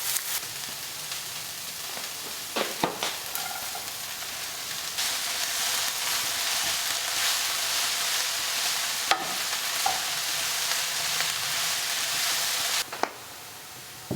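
Food sizzling in a frying pan, with a few sharp utensil taps against the pan. The sizzle grows louder about halfway through and stops abruptly near the end.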